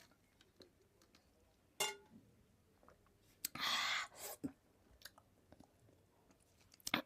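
Faint eating sounds: scattered soft mouth clicks, with a short noisy rustle about three and a half seconds in.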